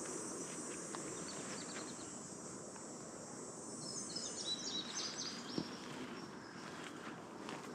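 Insects trilling steadily in a high hiss that fades out about three seconds in, then a songbird sings a short run of quick twittering notes about four to five seconds in.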